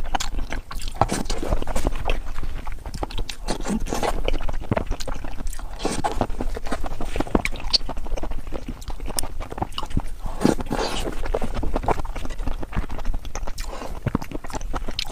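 Close-miked chewing and wet mouth smacking of someone eating cold dressed salmon and shrimp: a rapid, uneven run of small clicks and squelches.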